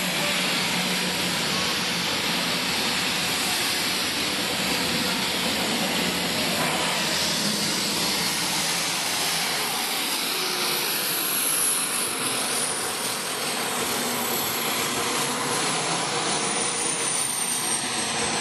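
Small passenger plane's turboprop engines running loud and steady during takeoff, a dense rush with a thin high whine that slowly falls in pitch over the last third.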